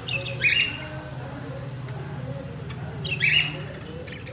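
A bird calling twice: two short, loud calls, one right at the start and one about three seconds in.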